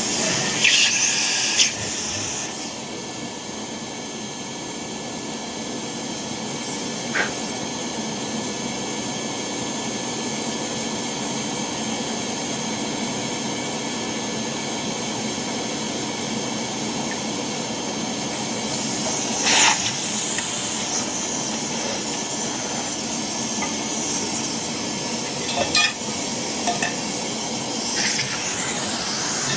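Steady hissing rush with a faint whine in it, broken by louder bursts of high, spray-like hiss lasting a second or two: at the start, about twenty seconds in, and near the end. A few light clicks and taps come in between.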